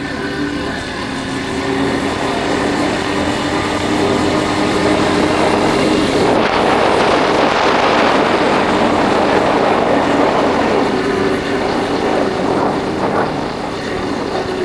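Yamaha Factor 150's single-cylinder four-stroke engine running while riding, with wind rushing over the microphone; the wind noise swells in the middle and partly covers the engine, then eases near the end.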